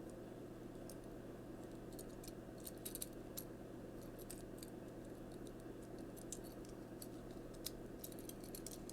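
Faint, irregular clicks of hard plastic as a small Transformers Siege Top Shot action figure's joints and parts are moved and snapped into place, over a steady low hum.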